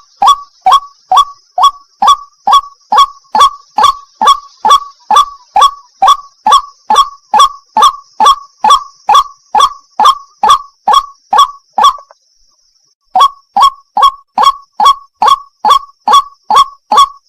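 White-breasted waterhen (wak-wak) calling, a loud monotonous 'wak' note about twice a second, each note dropping in pitch. The calls break off for about a second about three-quarters of the way through, then resume at the same pace. A faint steady high hiss runs beneath.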